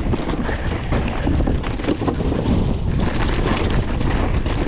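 Wind rushing over the microphone while a mountain bike rides down a rocky, rooty trail, with a steady run of knocks and rattles from the bike.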